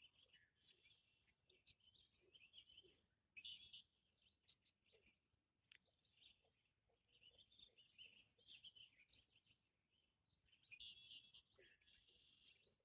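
Faint bird chirping, on and off, over low outdoor background noise.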